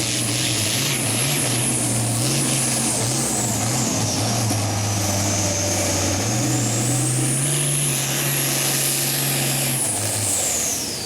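Turbocharged, P-pump-injected diesel farm tractor pulling a sled at full throttle, its engine note wavering up and down over a high turbo whistle. About ten seconds in, the throttle comes off and the engine and turbo whine fall away together.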